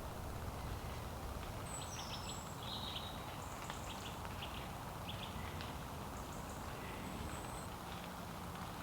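Small birds chirping and whistling in woodland over a steady low rumble.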